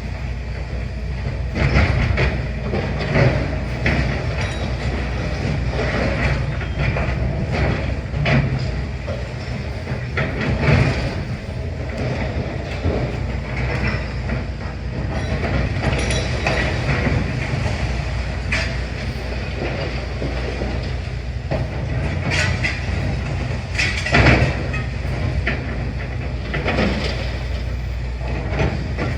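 Demolition excavator working: a heavy diesel engine runs steadily under irregular clanks, knocks and crunches of machinery and breaking rubble.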